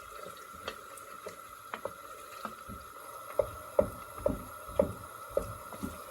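A spoon knocking and scraping against a cooking pot as onions and carrots are stirred. The knocks are light and scattered at first, then come louder at about two a second, over a steady hum.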